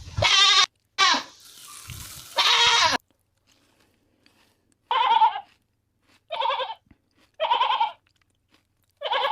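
Repeated animal calls, short wavering cries. Three come close together in the first three seconds, then after a pause four more follow, spaced about a second apart from about five seconds in.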